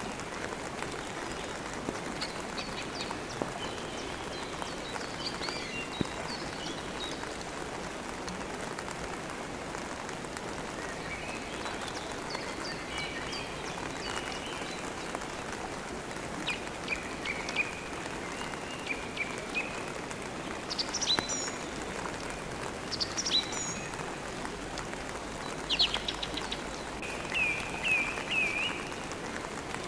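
Steady rain hiss with songbirds chirping on and off over it, short calls and trills scattered through, and a quick run of three or four repeated chirps near the end.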